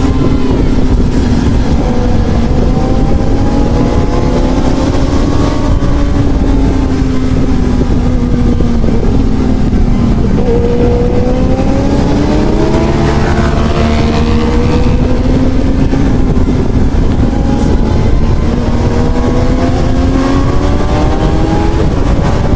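Honda CB1000R's inline-four engine running under way, its pitch rising and falling gently with the throttle and dipping once about halfway through, over heavy wind noise on the microphone.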